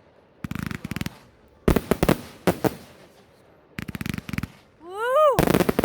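Fireworks going off in quick crackling volleys of sharp pops, four clusters each lasting about half a second to a second. Near the end a short pitched whine rises and falls, then the last burst of crackling comes in.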